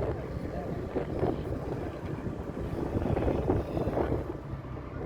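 A motorcycle engine running nearby, with wind buffeting the microphone.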